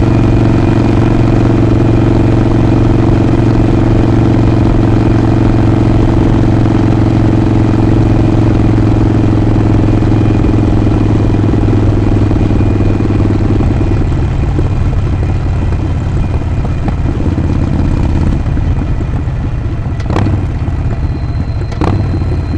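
Harley-Davidson Sportster 48's air-cooled 1200 cc V-twin running steadily under way. About two-thirds through, the note drops and turns rougher as the throttle is eased off. Two sharp clicks come near the end.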